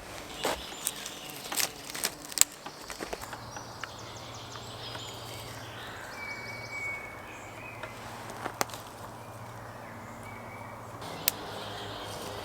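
A run of sharp clicks and knocks over outdoor background noise, thickest in the first few seconds, with single clicks later on. A low steady hum runs through the middle.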